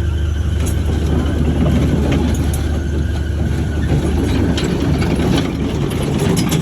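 Heavy diesel engine of earth-moving machinery running steadily at a low, even pitch, with scattered light clicks.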